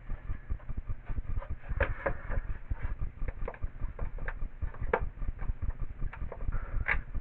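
Small metal hardware being handled: scattered light clicks and knocks, the sharpest about two, five and seven seconds in, over a dense low crackle of handling noise.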